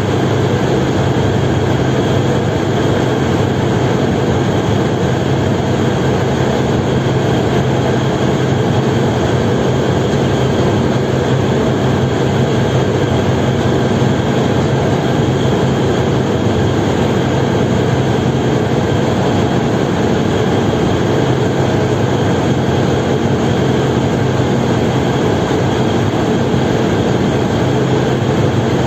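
Steady, loud drone of a ferry's diesel engines, running at an even pitch with no change.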